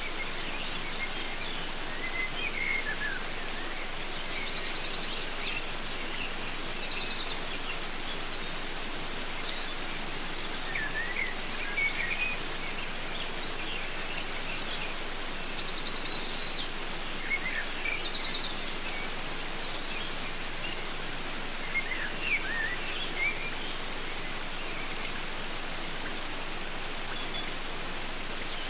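Steady rushing of a waterfall, with birds calling over it: short rapid high trills and chirps in two bouts, then a few scattered chirps near the end.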